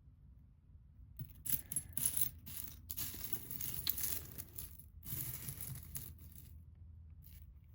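Rustling and clicking of a heap of costume jewelry being picked through by hand. It starts about a second in and dies down near six seconds.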